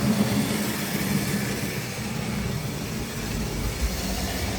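Tri-ang OO-gauge model train running on the layout: a steady electric motor hum with the rattle of wheels on the track.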